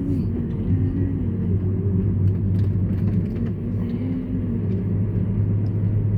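Steady low engine and road rumble inside a moving car's cabin.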